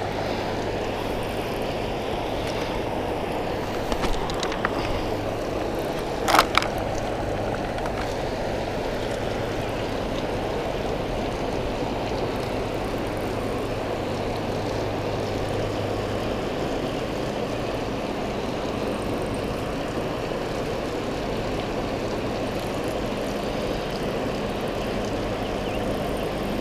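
Steady rush of water pouring over a spillway, with a low hum underneath that stops about two-thirds of the way through. A couple of brief sharp knocks come a few seconds in.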